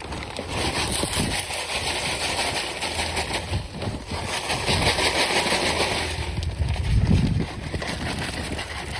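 Lime being poured from a bag into a fertilizer spreader's hopper: a steady rushing hiss of granules with some low rumble.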